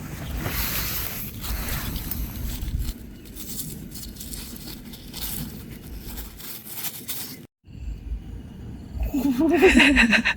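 Wind gusting against the microphone with rustling and scraping noises, then a brief break and a man's voice near the end.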